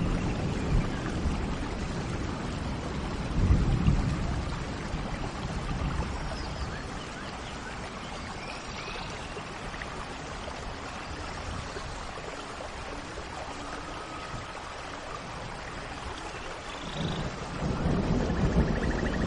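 Steady rain with low rolls of thunder at the start, again a few seconds in and building near the end. Faint, scattered bird chirps sound over the rain.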